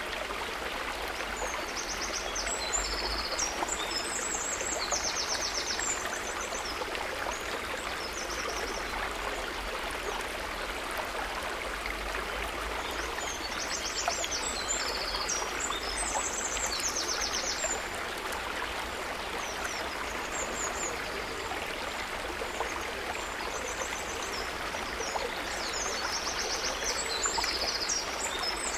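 River water running steadily. Clusters of high, rapid trilling calls come in three times, about every twelve seconds.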